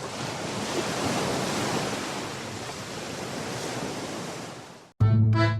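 Steady rushing roar of a river waterfall that fades away about five seconds in, when accordion music begins.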